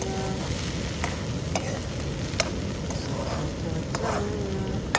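Vegetables sizzling as they fry in oil in a kadhai, stirred with a spatula that knocks against the pan a few times.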